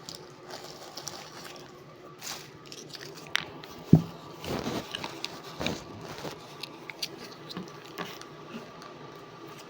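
Eating sounds close to the microphone: bites, chewing and small crunching and squishing noises from food being eaten, with one sharp knock about four seconds in.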